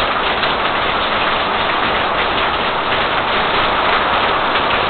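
Heavy thunderstorm downpour: rain pouring down in a steady, dense hiss of drops.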